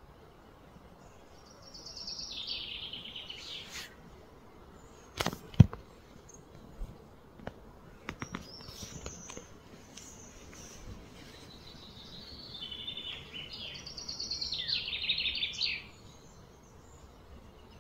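A songbird sings two high, rapidly trilled phrases, one about two seconds in and a longer one from about twelve seconds. A sharp click or knock about five seconds in is the loudest sound, followed by a few fainter clicks.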